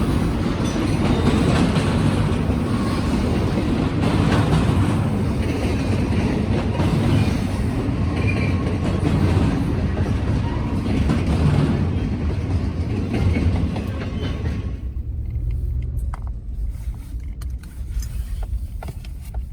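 Freight train cars rolling past with a loud, steady rumble and wheel rattle, cut off abruptly about fifteen seconds in and replaced by a much quieter low hum.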